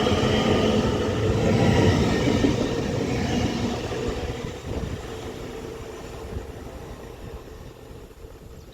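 Train running through the station and fading away: loud at first, then dying down steadily over the second half.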